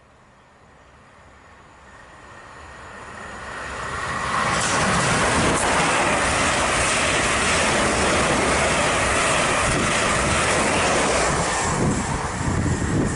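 Electric multiple-unit passenger train running through the station at speed without stopping: wheel-on-rail noise and the rush of the carriages. It grows steadily as the train approaches, holds loud and steady while the carriages pass, then eases off near the end as the train goes away.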